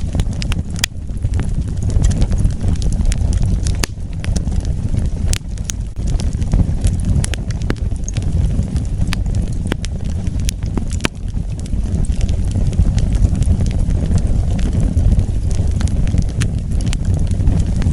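Wood fire burning, with a steady low rumble and irregular sharp crackles and pops from the burning wood.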